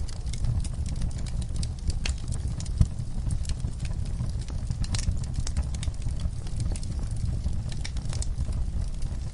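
Wood fire crackling in a fireplace: a steady run of sharp pops and snaps over a low rumble, with one louder pop about three seconds in.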